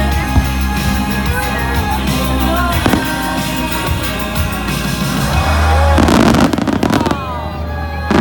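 Fireworks bursting and crackling over pop music, with a dense cluster of crackles about six seconds in and another sharp crack near the end.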